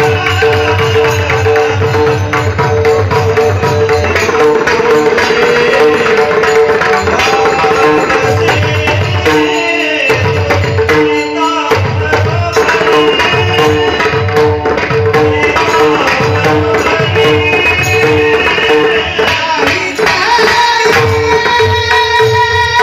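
Pakhawaj drumming, deep bass strokes mixed with sharper strokes, over a steady held drone note, with a short break in the drumming about ten seconds in.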